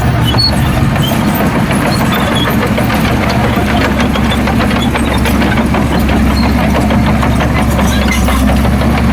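Heavy diesel engine of earthmoving equipment running steadily, with a dense, continuous clatter over it.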